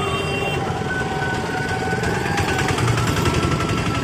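Motorcycle engine running while riding slowly through traffic: a fast, steady, even pulsing putter heard from on the bike.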